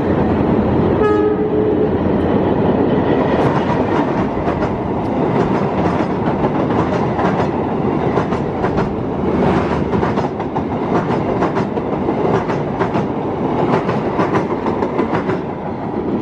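Diesel-hauled passenger train passing: a short horn blast about a second in, then the wheels clattering steadily over the rail joints as the coaches go by for about twelve seconds, easing off near the end.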